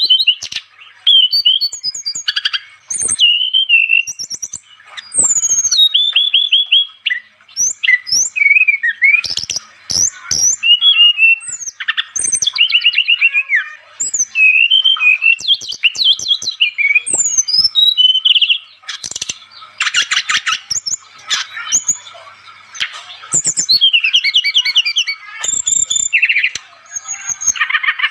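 Brown-chested jungle flycatcher (sikatan rimba dada coklat) singing without pause in a lively, 'gacor' song. It runs through a rapid, varied string of high whistles, chirps and fast trills, the kind of recording played to lure wild birds.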